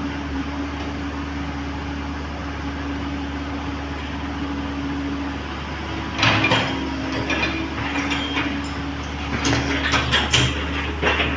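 Komatsu PC130 excavator engine running steadily with a low hum. From about six seconds in come sharp metallic clanks and knocks, more of them near the end, from work on the steel track.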